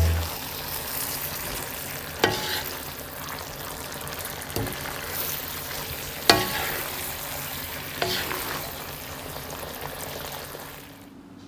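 Cabbage and pork belly sizzling in oil in a pan while a wooden spatula stirs and tosses them. The spatula knocks against the pan four times, about every two seconds. The sizzling cuts off near the end.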